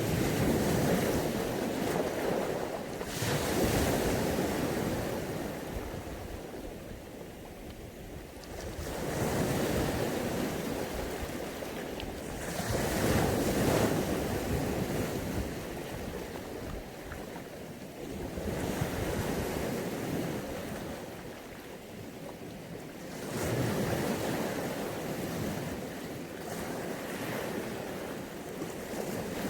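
Mediterranean Sea waves breaking and washing on a beach, the surf swelling and easing about every four to five seconds.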